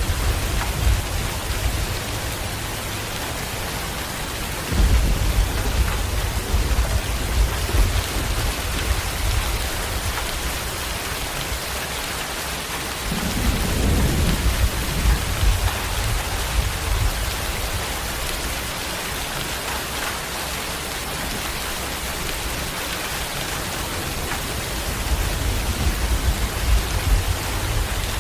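Steady heavy rain, with low rolls of thunder rumbling several times: at the start, about five seconds in, around the middle and again near the end.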